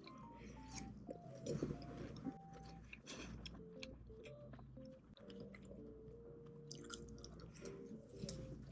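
Close-up chewing and crunching of food, many short crisp bites in a row, over soft background music.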